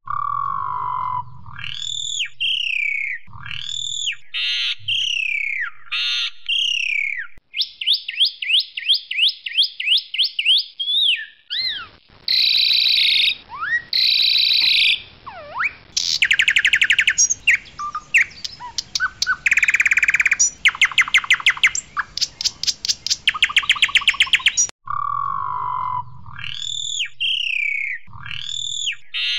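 Asian pied starling (white jalak suren) singing a loud, varied song: clear whistles that swoop up and down, fast rattling trills and harsh chattering notes. The opening phrase comes round again near the end.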